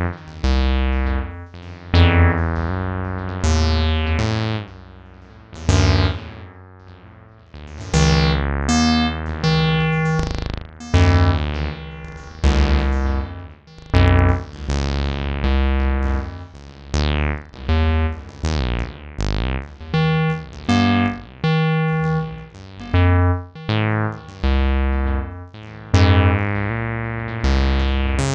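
Acid synth jam on acidmachine: a run of squelchy bass notes in the TB-303 style, each note bright at its start and dulling as it fades, over a deep low bass.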